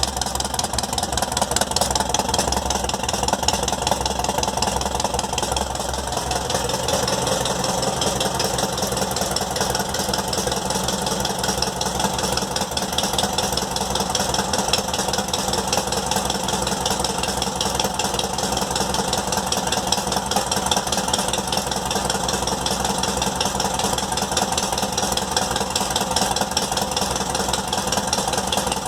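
1976 Volkswagen Beetle 1300's air-cooled flat-four engine idling steadily at a low idle through an open exhaust with no muffler, while still warming up after a cold start.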